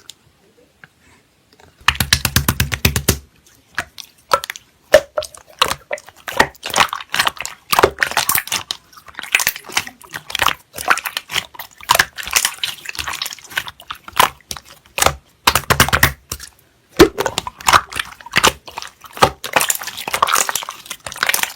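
Slime being squished, pressed and stretched by hand, making a dense run of wet clicks, pops and crackles. Louder stretches of rapid crackling come about two seconds in and again near sixteen seconds.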